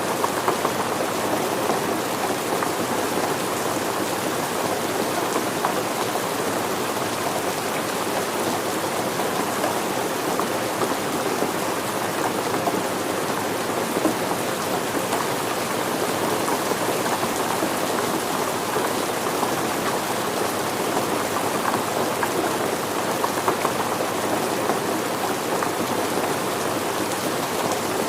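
Steady rain falling and pattering on surfaces, a dense even hiss of many small drop ticks.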